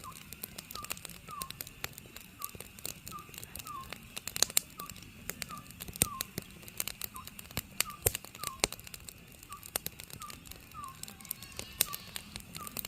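An Oriental scops owl repeating its short, slightly slurred whistled note in quick groups of two or three, over the irregular popping and crackling of burning firewood.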